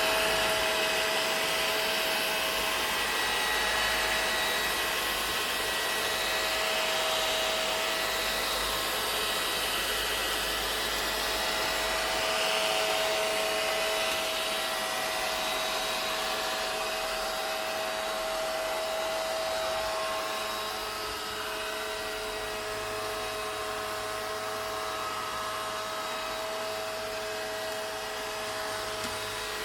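Vacuum cleaner running steadily: a continuous rushing hiss with a steady whine, a little quieter after about twenty seconds.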